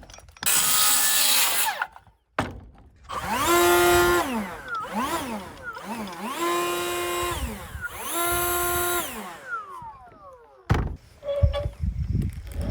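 Handheld power tool trimming wood: a loud cutting burst lasting over a second, then the motor revved three times, each time spinning up to a steady whine and winding back down.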